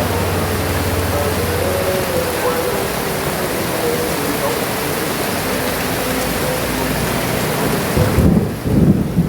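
Heavy rain pouring steadily, then about eight seconds in a deep rumble of thunder.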